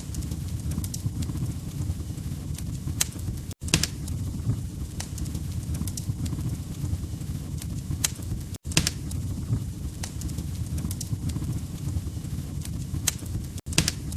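Fireplace fire crackling: a steady low rumble of burning logs with scattered sharp pops and crackles. The sound cuts out for an instant three times, about every five seconds.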